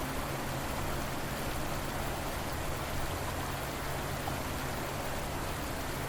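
Flowing river water, a steady even rush with no breaks.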